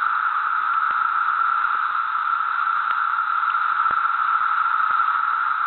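Chorus of periodical cicadas: a loud, incessant droning held at one steady pitch, with a few faint clicks over it.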